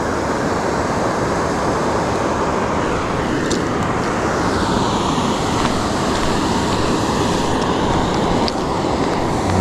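Steady rushing of a waterfall: an even wash of falling-water noise that does not change, with a couple of faint clicks.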